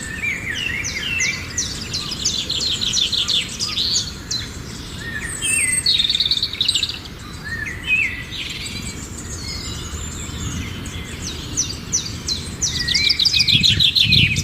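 Songbirds calling in a busy chorus: fast trills of rapid repeated notes and short rising chirps, over a low background rumble.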